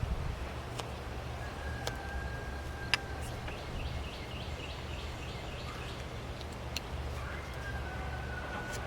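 A bird calling in the background: a held whistled note and runs of quick high chirps, about four a second. A few sharp clicks of a whittling knife cutting into wood are heard over a steady low hum.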